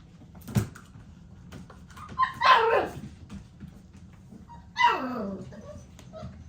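American Bully XL puppy barking twice, about two seconds in and again near the five-second mark, each bark falling in pitch.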